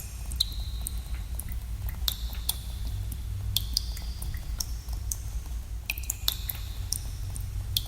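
Water drops falling into pools in a cave, each a sharp plink with a short ringing tone, about a dozen at irregular intervals and at several different pitches. A steady low rumble of cave ambience runs underneath.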